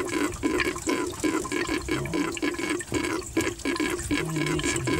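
Water running in from a hose and gurgling in a boat's fresh-water tank in quick, uneven pulses: the tank is full and being overfilled.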